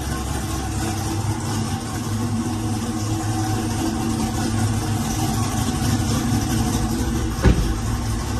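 Hennessey Venom F5's twin-turbo V8 idling steadily after a cold start, with one short sharp knock about seven and a half seconds in.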